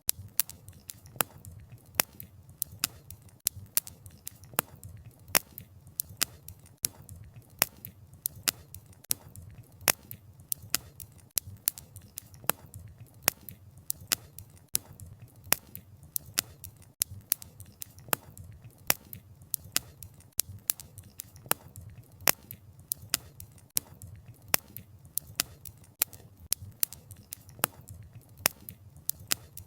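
Wood fire crackling: firewood snapping and popping in sharp clicks several times a second, over a low steady rumble of the flames.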